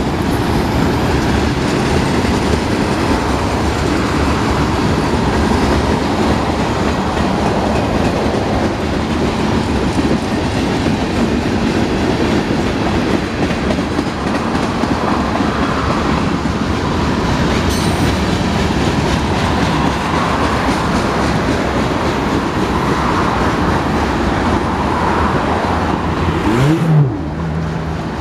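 Union Pacific freight train's autorack and tank cars rolling past, a loud, steady noise of steel wheels on the rails. A brief louder sound comes near the end.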